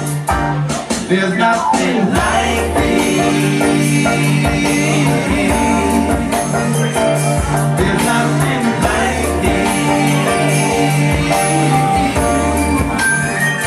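Live band playing a song, with a repeating bass line under guitar and percussion.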